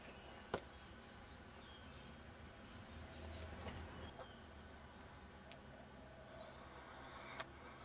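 Faint outdoor background with a few short, high bird chirps, and two sharp clicks, one about half a second in and one near the end.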